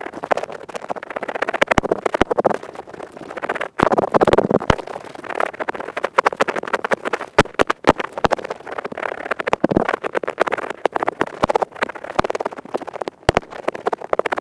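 Earpick scraping rapidly in close-up on the microphone, a dense run of crunchy scratches and tiny clicks.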